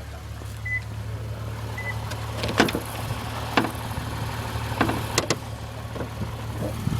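2008 Lexus IS250's V6 idling steadily while the hood is released and lifted, with a series of sharp clicks and clunks from the latch and hood. Two short high beeps sound early on.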